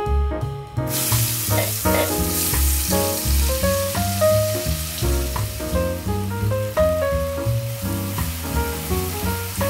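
Ground chili-and-shallot spice paste hitting hot frying oil in a wok and sizzling. It starts suddenly about a second in, is loudest just after, then keeps on steadily as the paste is stirred, over background music.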